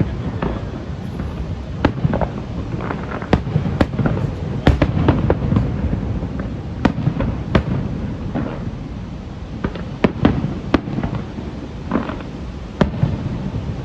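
Aerial fireworks display: a rapid, irregular string of sharp bangs and cracks from shells bursting overhead, over a continuous low rumble of booms.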